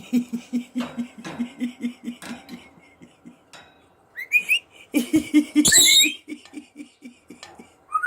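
Senegal parrot whistling: short rising whistles about four seconds in, then a loud shrill whistle near six seconds. Under it runs a rapid low pulsing, about four to five beats a second, that stops and starts.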